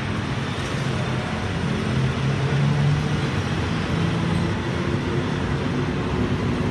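Passenger coaches of a departing train rolling past at low speed: a steady rumble of steel wheels on the rails with a low hum that swells a little midway.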